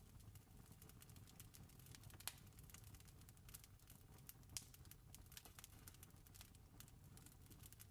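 Faint campfire crackling: irregular small snaps and pops over a low rumble, with two louder pops about two and four and a half seconds in.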